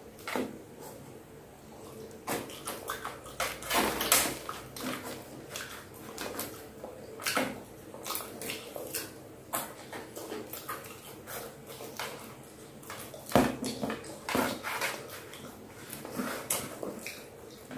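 Close-up mouth and hand sounds of eating raw petai (stink beans): irregular crisp crunches and clicks as the beans are chewed and the green pods are split and peeled open, the loudest about 4 seconds in and again about 13 seconds in.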